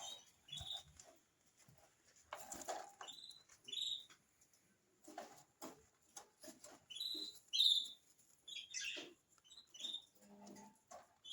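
Budgerigars chirping: short, high chirps repeated at irregular intervals, mixed with light clicks and scratches.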